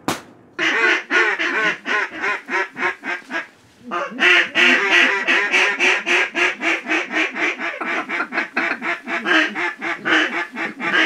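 A single shot right at the start, then a fast, loud run of duck quacks, about four or five a second, with a short break about three and a half seconds in.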